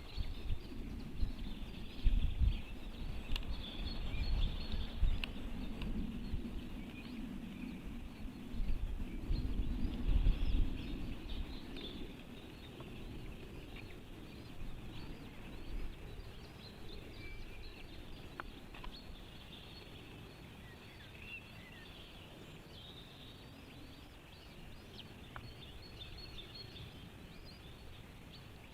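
Wind rumbling on the microphone over a background chorus of small songbirds chirping and singing; the wind eases after about twelve seconds, leaving the birdsong.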